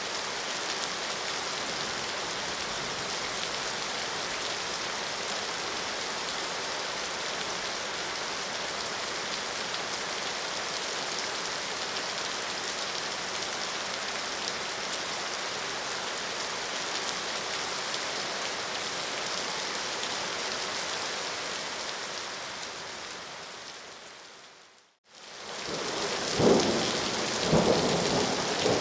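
Steady heavy rain falling, an even hiss that fades out to a brief silence near the end. It comes back straight away with loud rolls of thunder over the rain.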